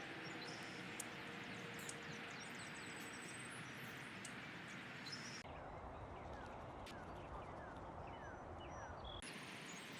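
Faint outdoor ambience with a steady hiss and wild birds calling: short, high, downward-sliding chirps repeated several times a second, clearest in the second half. The background changes abruptly about five seconds in and again near the end.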